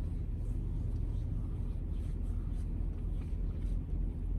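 Semi truck's diesel engine idling, a steady low rumble heard inside the cab, with faint light rubbing sounds over it.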